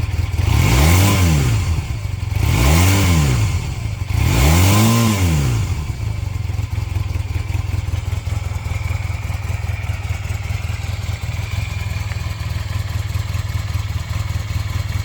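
Honda CB400N Hawk III's parallel-twin engine idling, blipped three times in quick succession in the first six seconds, each rev rising and falling back, then settling to a steady idle. The exhaust is not loud.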